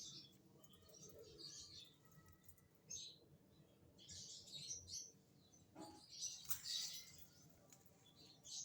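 Lovebirds chirping: several short, scattered bursts of high chirps, the busiest stretches about four to five seconds in and again around six and a half to seven seconds in.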